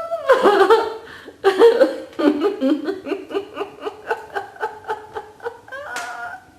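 Laughter-yoga laughing: a first burst of laughter, then a long run of rhythmic "ha-ha-ha" pulses, several a second, that grows quieter near the end.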